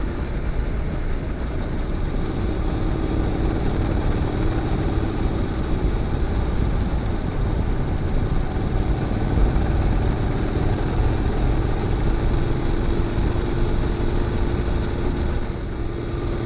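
Honda NC750X parallel-twin engine running under way through a GPR aftermarket muffler, pulling with a steady, even note.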